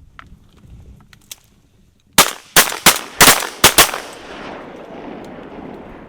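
A rapid volley of about six or seven shotgun shots in under two seconds, from several duck hunters firing together, with the reports rolling off in a long echo afterwards.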